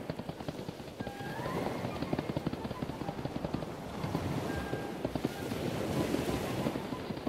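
Sound effect of galloping hoofbeats: a fast, dense run of hoof taps for a running deer.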